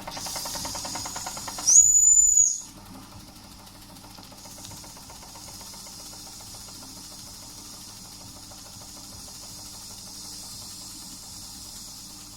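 Doll & Co 339/2 model steam engine running with a rhythmic chuff and a hiss of steam. About two seconds in, its steam whistle sounds one high, steady note for about a second, the loudest thing here. The engine then runs on more quietly under a soft hiss.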